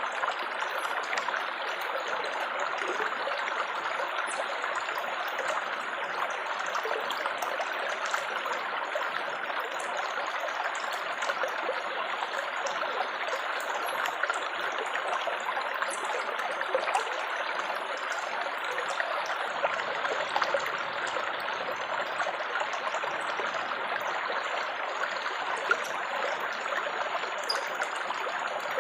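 Water trickling and babbling steadily, like a small stream, with light splashes.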